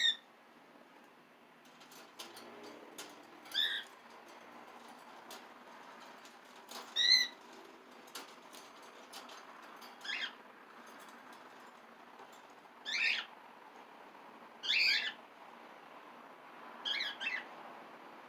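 Pet cockatiel giving short, loud, wavering contact calls, about seven of them a few seconds apart, the last two close together.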